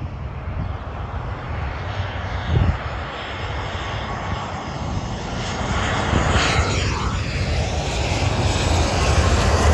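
Jet airliner flying low overhead: a wide engine rumble that grows steadily louder, with a whistling tone that sweeps down and back up about two-thirds of the way in.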